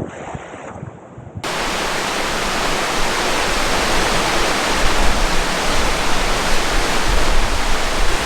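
Kaaterskill Falls, a tall two-tier waterfall, heard up close as a loud, steady rushing roar with a deep rumble underneath. It cuts in suddenly about a second and a half in, after a quieter, muffled opening with a few soft knocks.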